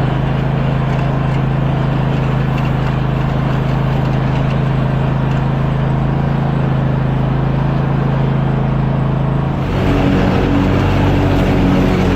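An engine running steadily with a low hum; about ten seconds in it changes abruptly to a different, pulsing engine note.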